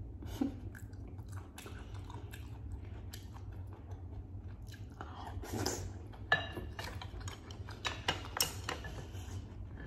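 Close-miked eating: wet chewing, lip smacks and sharp mouth clicks as a spoonful of soft cooked carrot pieces is taken in and chewed. The clicks grow denser and louder in the second half, over a steady low hum.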